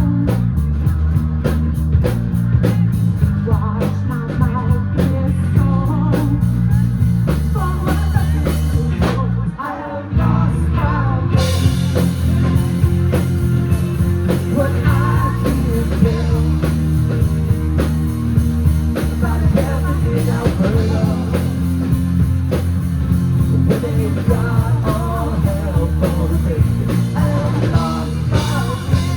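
Live rock band playing: drums, bass and electric guitars. The band drops out briefly about a third of the way through, then comes back in with cymbals crashing.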